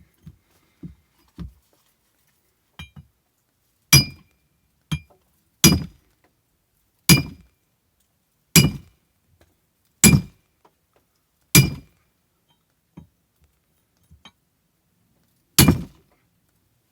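Hammer blows on metal during axe-handle work: a few light taps, then a steady series of heavy strikes about a second and a half apart, each with a short metallic ring, and a pause before the last blow.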